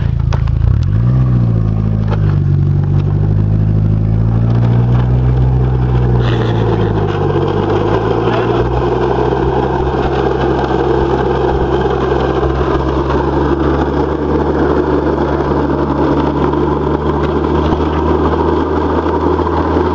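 Towing car's engine pulling away and then running at a steady speed, under a steady rushing noise of tyres, road and wind heard from the open boot. The engine pitch rises in the first couple of seconds, drops about six seconds in, then holds steady.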